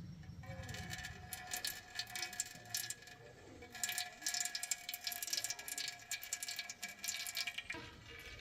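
Small metal parts clinking and rattling in quick irregular clicks over a steady machine whine, which cuts off suddenly near the end.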